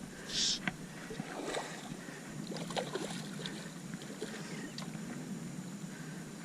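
Water lapping against a small jon boat's hull, with a short hiss about half a second in and a few light knocks and clicks.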